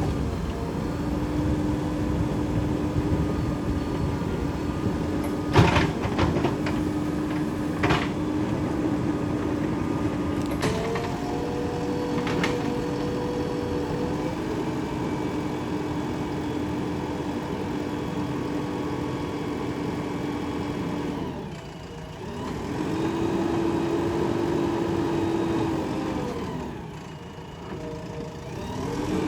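JCB 3DX backhoe loader's diesel engine running under working load with a steady whine that shifts up and down in pitch as it works. A few sharp clanks come in the first half. Twice in the second half the sound drops away briefly and then comes back up.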